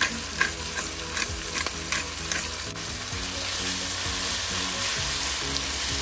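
Sliced beef and onions sizzling steadily in a hot stainless pan, with a few sharp clicks in the first couple of seconds.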